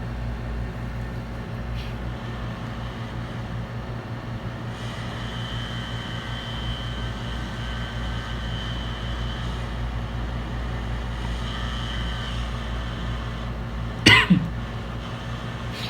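Steady hum of running bench equipment, joined for several seconds by a high whine, and one short cough about fourteen seconds in.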